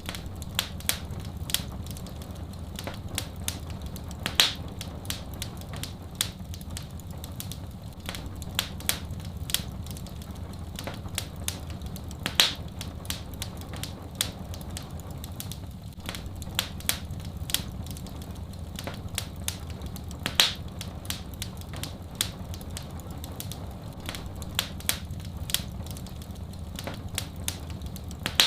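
Wood fire crackling in a fireplace: irregular sharp pops and snaps, several a second, with a few louder cracks, over a steady low rush.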